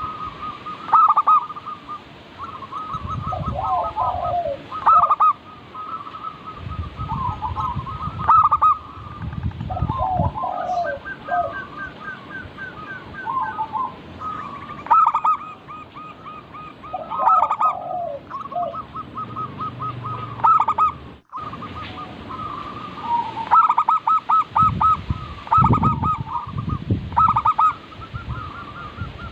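Several zebra doves (perkutut) cooing over one another, each call a quick rolling string of staccato coos, repeated again and again. There are a few low rumbles in the background, and a brief dropout about two-thirds of the way through.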